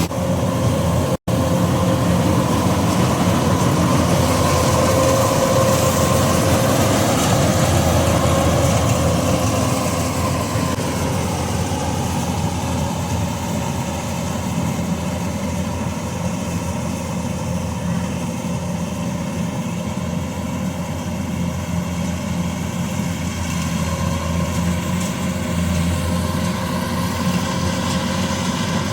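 Combine harvester engine running steadily under load, its drone easing down a little in pitch and loudness about a third of the way through. The sound cuts out for an instant about a second in.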